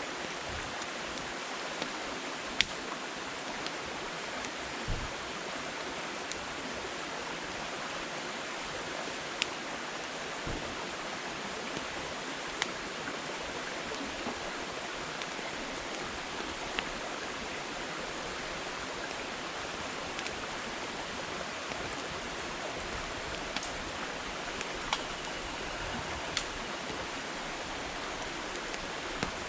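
Wood fire burning: a steady hiss with sharp, irregular crackles and pops from the firewood, one louder pop a few seconds in.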